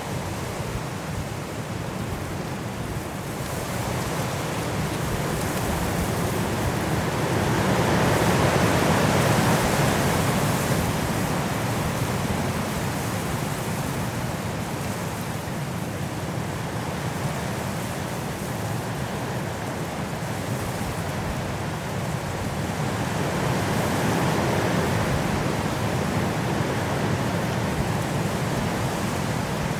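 Strong wind blowing through trees in a snowstorm, a steady rushing that swells into two gusts, one about a third of the way in and another near the end.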